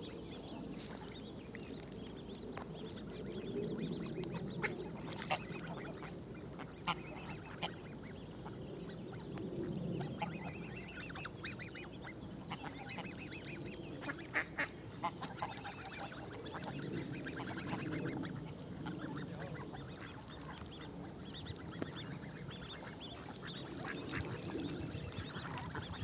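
Geese and ducks giving short, scattered honks and quacks over a steady low background rumble, the calls coming thickest about halfway through.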